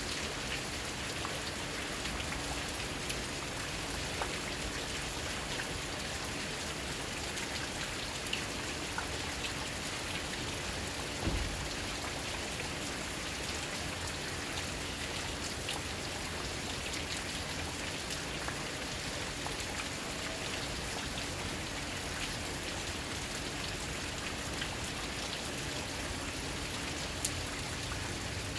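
Steady rain falling, with scattered single drops ticking and one louder knock about eleven seconds in.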